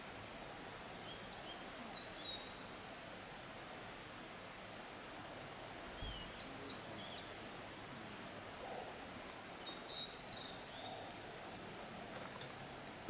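Small birds giving short, high chirping calls in three brief bouts over a steady outdoor background hiss.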